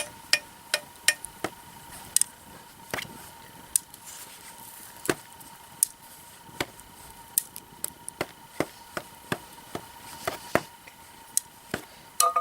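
Sawtooth oak (kunugi) firewood burning in a campfire, crackling with irregular sharp pops a few times a second over a faint steady high whine, the 'chii' of the burning wood.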